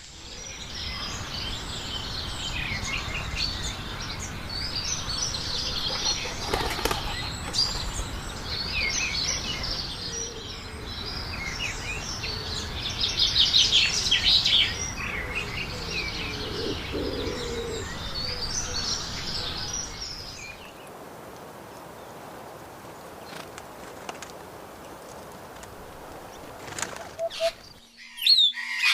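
Many small birds chirping and twittering at once over a steady rushing noise. About two-thirds of the way through the rushing noise stops abruptly, leaving only a few scattered calls.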